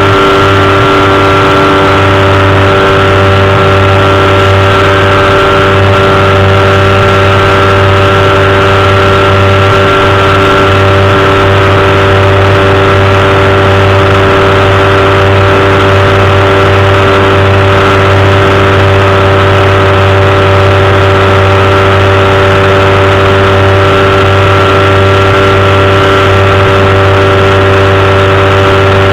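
Powered parachute's engine and propeller running loud and steady in flight, holding one unchanging pitch throughout.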